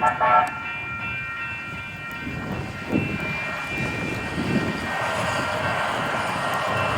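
Grade-crossing warning bells ringing steadily while a light rail train approaches, its wheel-on-rail noise building from about five seconds in, with wind rumbling on the microphone.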